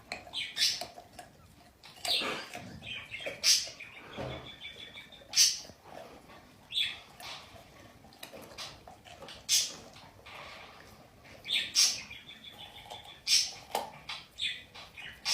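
A bird chirping in short, sharp calls, repeated at uneven intervals of a second or two.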